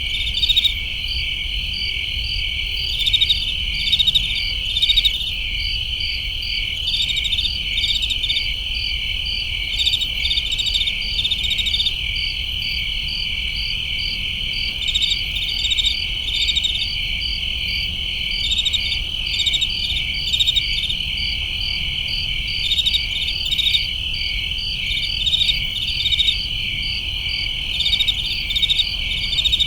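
Chorus of crickets chirping: a steady high-pitched trill with overlapping pulsed chirps, swelling in brief louder clusters every second or two.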